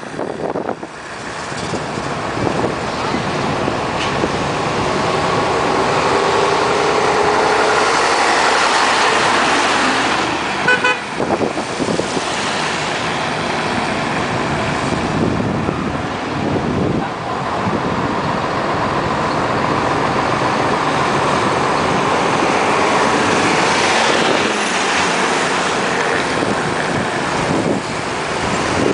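Road traffic running steadily, with engine noise that rises in pitch for a few seconds and a vehicle horn sounding briefly about eleven seconds in.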